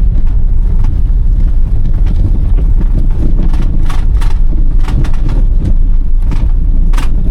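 1993 Toyota Corolla 2.0 diesel driving on a muddy, rutted dirt road: a steady low rumble of engine and tyres, with scattered short knocks and clunks as it goes over holes and bumps.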